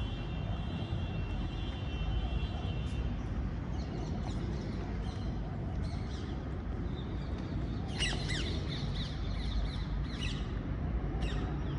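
Birds calling in a series of short, high calls, thickest about eight seconds in, over a steady low rumble. A steady high tone sounds for the first few seconds.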